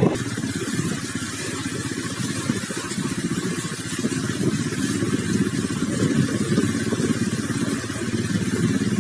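A vehicle engine running steadily, with a steady hiss over it.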